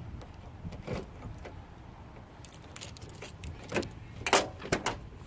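Keys jangling, with scattered clicks and knocks, the loudest about four seconds in.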